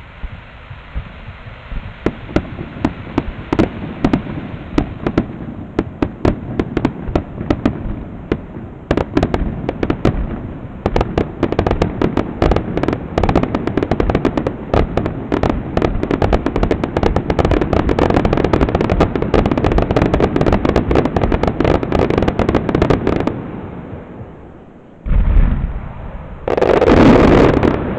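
Fireworks display: a dense barrage of rapid bursts and crackling reports, many per second, for about twenty seconds, fading out. Two heavy booms follow near the end.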